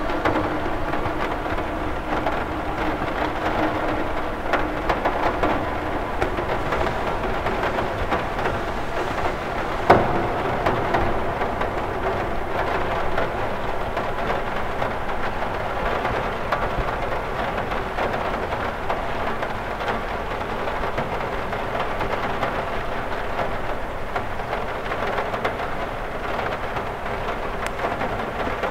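Steady rain pattering on a window pane, an even hiss of many small drop ticks, with one sharper, louder tap about ten seconds in.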